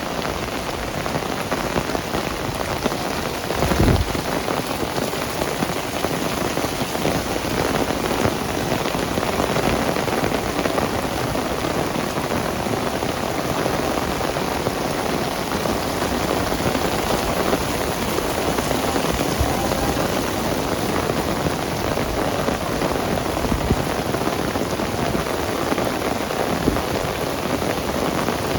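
Heavy rain falling steadily, an even hiss and patter of drops on surfaces, with one brief low thump about four seconds in.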